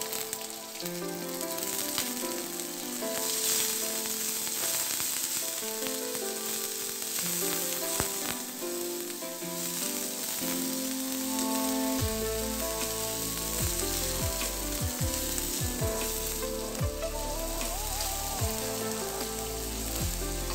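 Shrimp and garlic sizzling in hot oil in a wok while being stir-fried with a wooden spatula, a steady frying hiss. Background music with a melody plays underneath, with a bass beat coming in about two-thirds of the way through.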